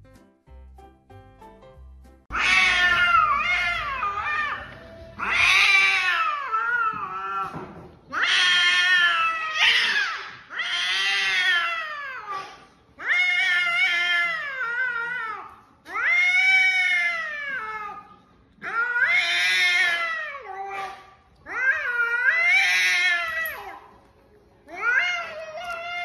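A cat yowling: a run of about nine long, drawn-out calls, each rising and then falling in pitch, one after another every two seconds or so, starting about two seconds in.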